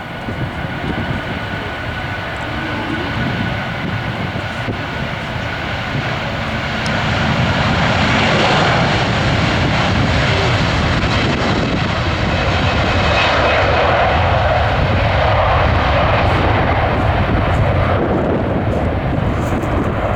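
Airbus A330-200 jet engines at takeoff power, a steady roar that grows louder about seven seconds in and stays loud.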